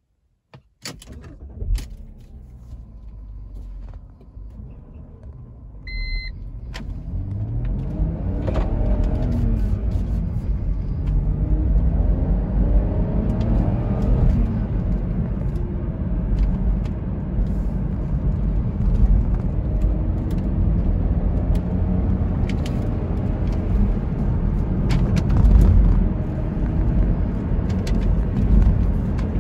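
BMW X3's straight-six petrol engine starting with a turn of the key and idling, with a short electronic chime about six seconds in. Then the manual SUV pulls away and accelerates through the gears, the engine note rising and dropping back at each shift over steady road rumble, heard from inside the cabin.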